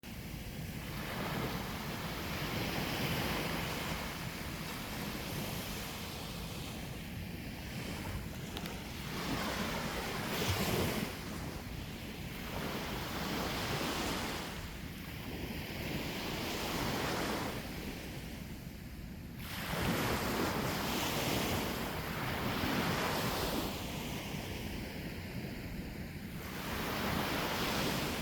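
Sea waves breaking and washing up the shore, the surf swelling and easing every few seconds, with wind rumbling on the microphone.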